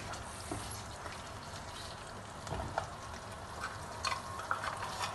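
Okra stew in tomato sauce cooking in a non-stick pan, a steady sizzle with scattered small pops as the little water just added cooks off. A wooden spatula stirs it near the start.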